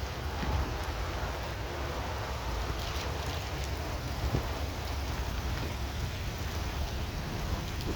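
Heavy rain falling steadily, with scattered drops ticking and a steady low rumble underneath.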